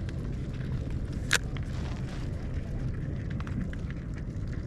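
Steady low rumble of a boat at rest on the water, with one sharp click about a second and a half in and a few faint ticks.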